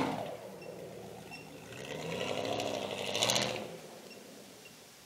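Jeep Grand Cherokee's engine working off-road: its note dies down at first, revs up again about two seconds in, then fades away at around four seconds as the vehicle drives off.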